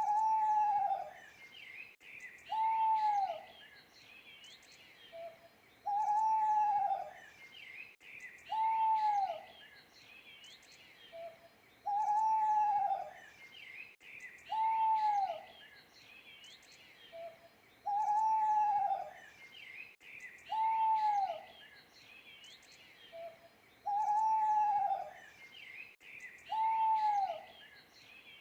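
An owl hooting in a repeating pattern: a short soft note, then a long falling, arched hoot and a shorter one about two seconds later, the set repeating about every six seconds. Small birds chirp steadily behind it.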